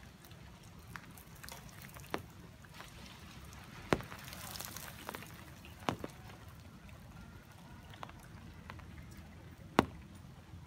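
Rain: large drops landing as sharp, irregular taps every second or two, the loudest about four seconds in and near the end, over a faint steady patter.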